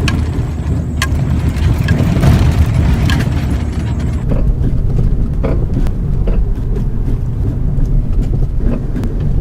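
Car's rear suspension working on its springs alone, with no shock absorbers, over rough ground: a steady low rumble with irregular knocks and rattles from the undamped suspension.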